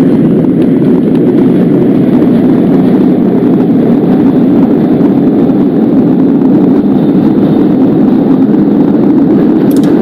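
Subway train running along the tracks: a steady, loud rumble, with a brief click near the end.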